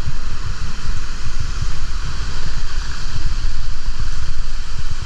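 Wind buffeting the microphone in uneven gusts over a steady rush of water from a waterfall.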